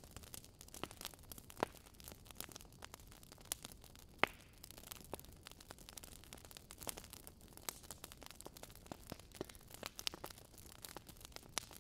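Wood fire crackling in a fireplace: irregular small pops and snaps over a faint steady hiss, with two sharper pops, the loudest about four seconds in.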